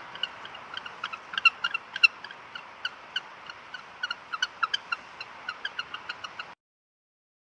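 Penguins calling: a rapid run of short, high peeps and chirps over a steady hiss, cutting off suddenly a little over six seconds in.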